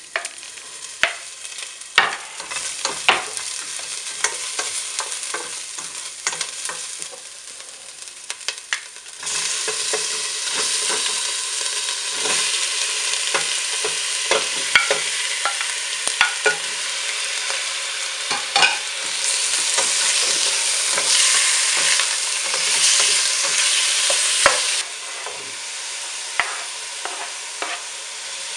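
Chicken wings with shallots and ginger sizzling in olive oil in a stainless steel pot, with a utensil clacking and scraping against the pot. The sizzle grows louder about nine seconds in and is loudest from about nineteen to twenty-five seconds in.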